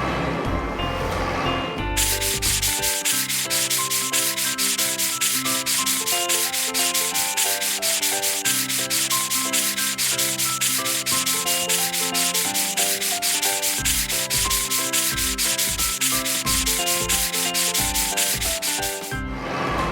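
A rapid, even scrubbing noise, several strokes a second, a cartoon sound effect of a vehicle being scrubbed in a car wash. It plays over a melodic background tune. The scrubbing starts about two seconds in and stops just before the end, and a bass line joins the tune about two-thirds of the way through.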